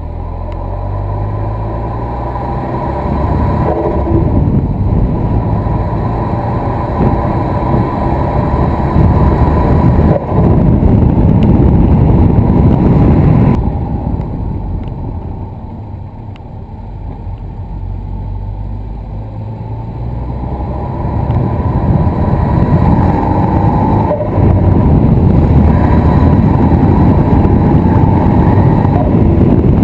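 Ford Focus ST Mk3 engine accelerating hard, with brief dips as the throttle lifts between gears. The sound falls away sharply about halfway through and then builds again. The title names turbo flutter, the chatter of boost surging back through the turbo when the throttle is closed.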